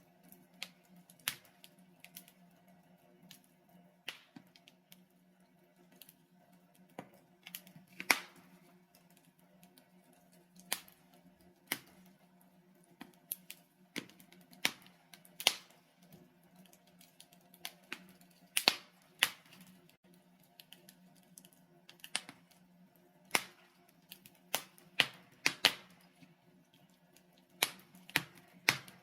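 Wood fire of burning logs in a fireplace crackling, with irregular sharp pops, a few to several every couple of seconds, over a faint steady low hum.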